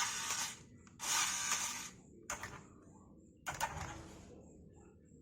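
Handling of a toy RC truck and its remote: two short bursts of mechanical rattling noise in the first two seconds, then separate sharp clicks about two and three and a half seconds in.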